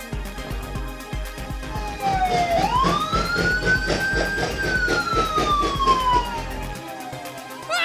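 Police siren sound effect giving one slow wail: it rises about two seconds in, holds briefly, then falls slowly, over background music with a steady beat.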